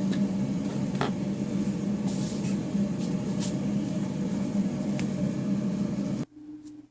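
A household furnace blower runs with a steady low hum, then shuts off abruptly about six seconds in. A few faint light clicks sound over it.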